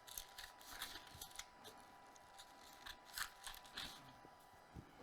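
Faint crinkling and rustling of baking paper, a scatter of soft crackles, as softened herb butter is laid onto it.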